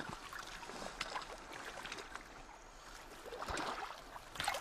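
Water splashing and trickling in an irregular run of small splashes and drips.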